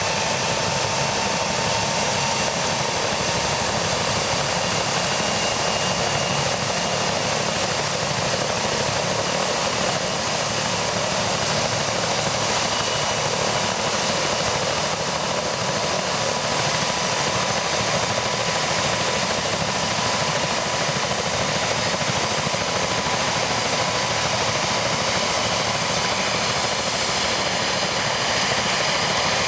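BK 117 twin-turbine helicopter running steadily, its rotor and turbines giving a constant whine. A faint, very high whine rises near the end.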